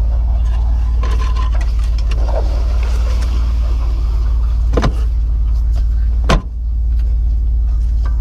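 Jeep engine running at a low steady idle, a continuous low rumble. Two sharp knocks cut through it just past halfway, about a second and a half apart, the second the louder.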